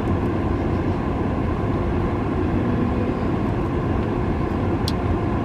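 Steady low rumble of a vehicle engine, with a short sharp click just before the end.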